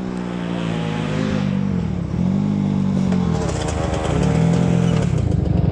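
Dirt bike engine running, revved up and back down twice, then running rougher toward the end.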